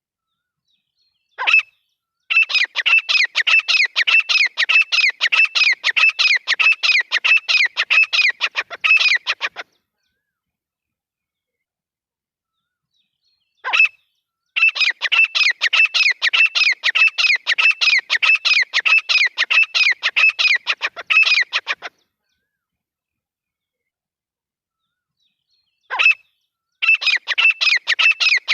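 Grey francolin calling: three bouts, each opening with a single sharp note followed by about seven seconds of rapid, evenly repeated shrill notes, with complete silence between bouts.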